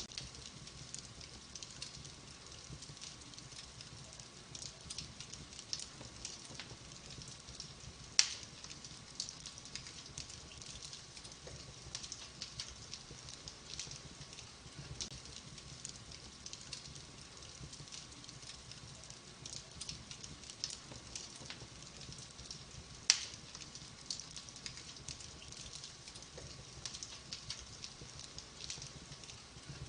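Wood fire burning in a fireplace: steady soft crackling and ticking of the burning logs, with two sharp, loud pops, one about a quarter of the way in and another about three quarters of the way in.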